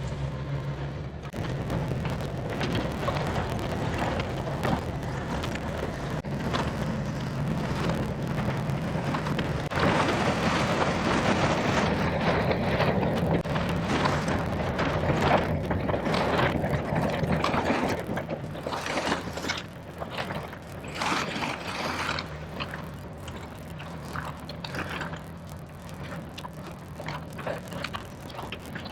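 Diesel engine of heavy earthmoving equipment running under load, with a stretch of dense crackling and snapping, like a tree branch being broken and crushed, loudest between about ten and eighteen seconds in.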